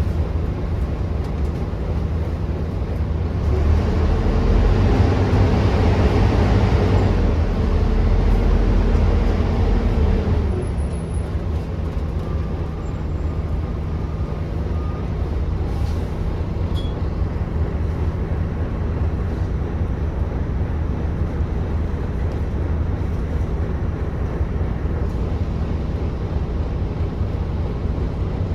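Volvo B9TL double-decker bus's 9.4-litre six-cylinder diesel engine, heard from on board. It runs louder and harder for about seven seconds starting some three and a half seconds in, then drops back and runs steadily.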